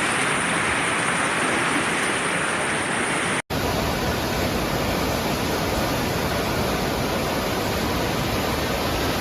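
Steady rushing noise of typhoon wind and water. It drops out abruptly about three and a half seconds in and picks up again straight away at a shot change.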